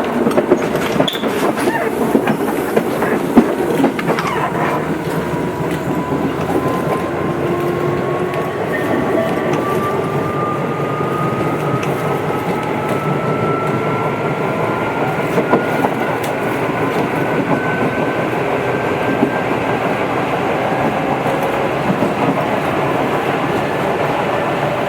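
Tobu 8000 series electric train running, with a motor whine slowly rising in pitch as it picks up speed, over the wheel and rail-joint clatter. A few sharp clacks sound in the first few seconds.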